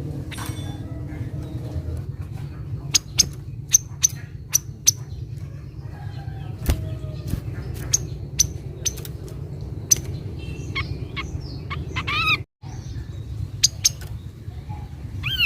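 Kaso-kaso bird calls used as a lure recording: a run of short, sharp high chip notes, roughly two a second, then a quick cluster of rising notes later on, over a steady low hum. The sound cuts out completely for a split second near the end.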